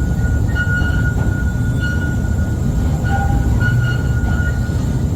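Narrow-gauge electric train running through a tunnel: a steady low rumble of wheels on rail, with short high-pitched wheel squeals coming and going several times.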